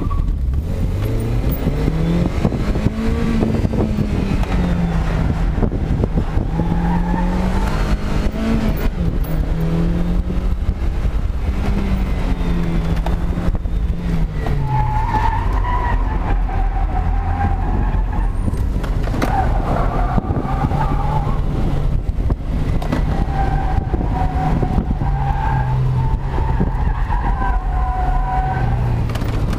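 Toyota MR-S's 1.8-litre four-cylinder engine, heard from the open cockpit, revving up hard in the first seconds and then rising and falling under hard driving. From about halfway on, the tyres squeal in repeated wavering stretches, over heavy wind buffeting on the microphone.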